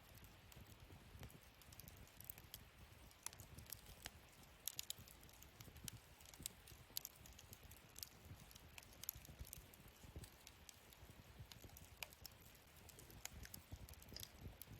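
Wood fire in a fire pit stand crackling quietly, with irregular sharp snaps and pops over a faint low rumble.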